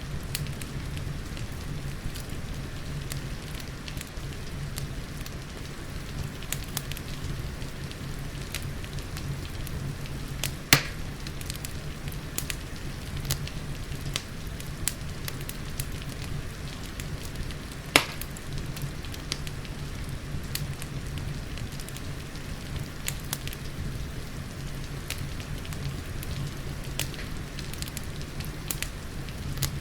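Wood fire crackling with frequent small snaps and two sharper, louder pops, one about a third of the way through and one past the middle, over a steady hiss of rain.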